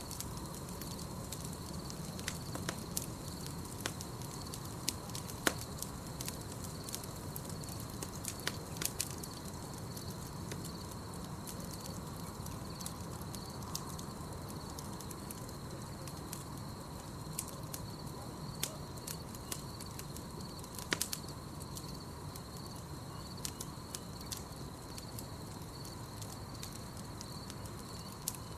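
Campfire crackling, with irregular sharp pops scattered throughout over a low steady rumble of the burning wood. A steady high chirring of night insects runs underneath.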